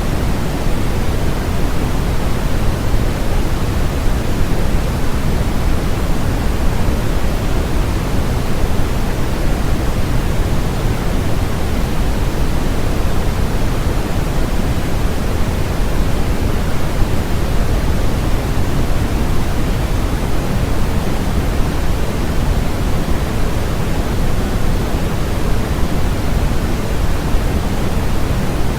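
Steady synthetic white noise: an even, unchanging hiss with more weight in the low end than the top.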